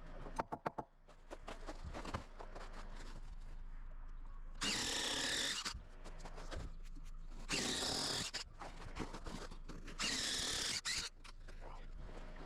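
Power drill run in three short bursts of about a second each, with a few light taps near the start.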